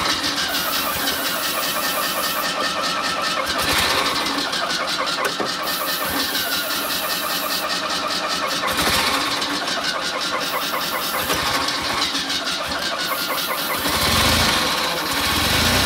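Carburetted car engine cranking and firing on WD-40 sprayed into its carburettor intake, with a louder surge near the end. WD-40 does not keep it running.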